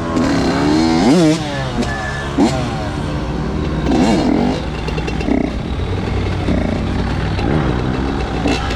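Several dirt bike engines idling and revving in short throttle blips, their pitch sweeping up and falling back, with more than one engine at once.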